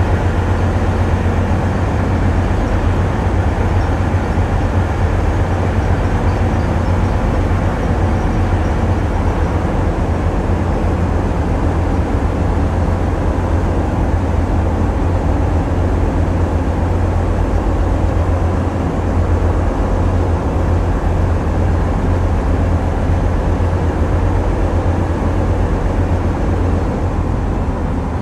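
Tugboat's diesel engines running steadily, a loud, deep drone heard on board.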